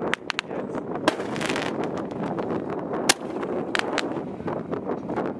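Fireworks going off: a string of sharp bangs at irregular intervals, several close together near the start and again near the end, over a continuous hiss of crackle and noise.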